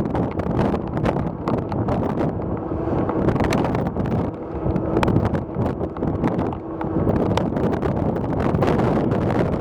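Wind buffeting the microphone: a heavy, uneven low rumble with frequent crackles. A faint steady hum sits under it for a few seconds in the middle.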